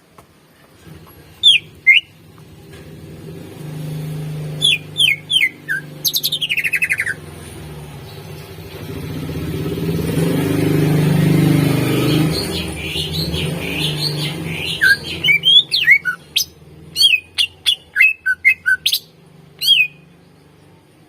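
Greater green leafbird (cucak ijo) singing: sharp, down-slurred whistled notes and chattering phrases in scattered groups, then a quick run of repeated notes over the last third. A low rumble swells and fades underneath, loudest about halfway through.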